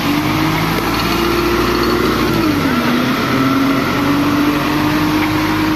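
A small engine running, its speed rising and falling slowly.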